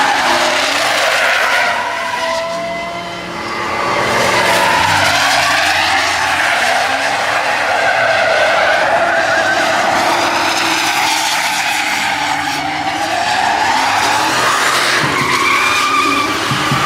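Truck engine revving up and down under wheelspin, with the tyres squealing without a break, as in a burnout or donut.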